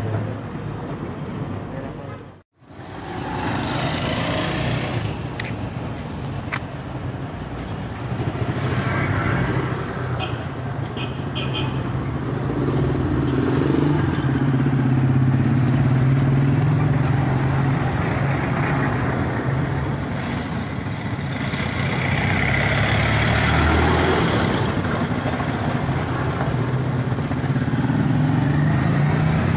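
A small motorcycle engine running steadily, as on a tricycle riding through street traffic, under road noise. The sound cuts out for a moment about two and a half seconds in.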